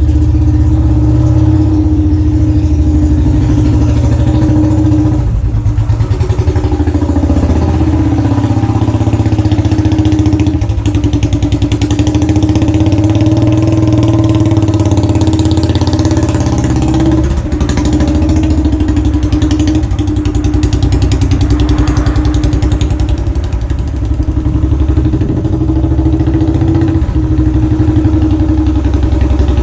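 Royal Enfield Classic 500's single-cylinder engine running loudly through its exhaust, a steady train of firing pulses that dips briefly a couple of times.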